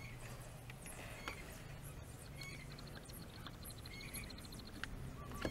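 Faint bird chirps, with a fast trill in the middle, over a low steady hum.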